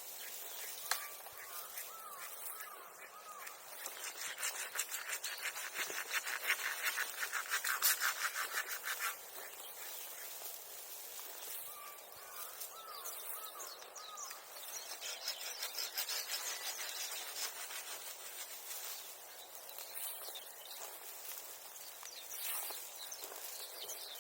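Dry kindling crackling as a freshly lit bonfire catches, in dense rapid clicks that swell twice. A bird calls twice, each time a quick run of four chirps.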